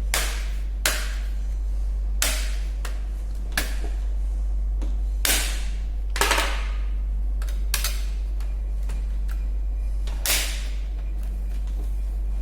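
Plastic locking clips of a laptop's palmrest panel snapping into the base as the panel is pressed down, about ten sharp clicks at irregular intervals. A steady low hum runs underneath.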